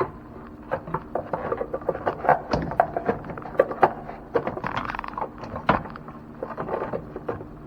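Hands fitting and routing engine parts in the engine bay: irregular clicks, knocks and scrapes of plastic and metal being handled and pushed into place, with a few sharper knocks.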